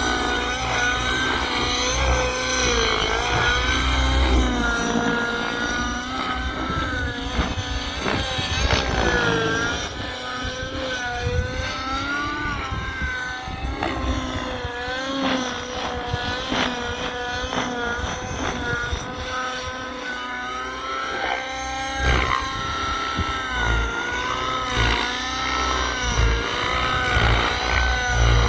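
Nitro RC helicopter (Miniature Aircraft Whiplash 730) in flight, its O.S. 105 HZR two-stroke glow engine with tuned pipe whining steadily, the pitch wavering up and down continuously.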